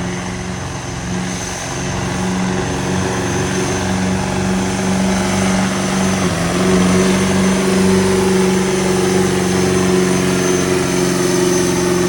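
Turbocharged diesel pickup engine, a Chevrolet 2500 HD, running flat out under heavy load while pulling the weight sled down the track. The pitch holds steady, with a slight dip about halfway through.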